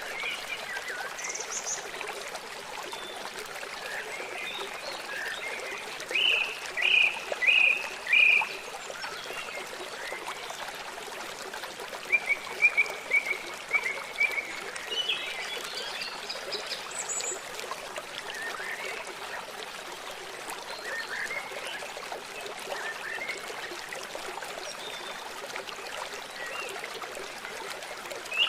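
River water running steadily, with birds chirping over it: four loud calls about six seconds in and a quick run of notes about twelve seconds in, with fainter chirps scattered between.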